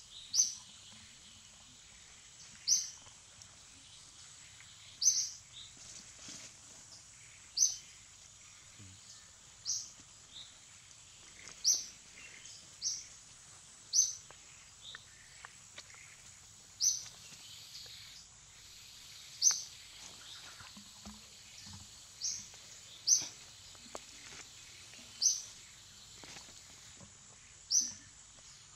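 A bird repeating one short, high chirp about every two seconds, over a faint steady high-pitched hum.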